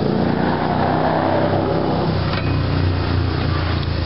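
A motor vehicle engine running and revving, its pitch moving up and down over a steady low hum.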